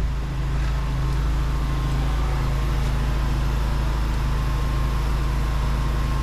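Drain jetter's engine running with a steady low hum.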